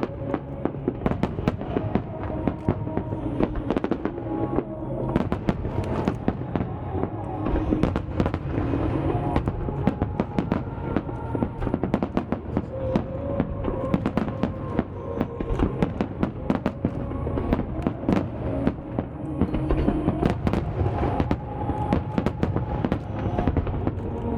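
Large fireworks display: many shells bursting in rapid, irregular succession, with booms and crackle, over music played on loudspeakers with long held notes.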